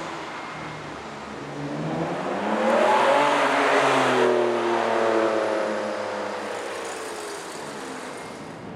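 Ferrari 599's V12 engine accelerating hard as the car drives past. The pitch climbs steeply about two to three seconds in, is loudest just after, then slides down and fades as the car pulls away.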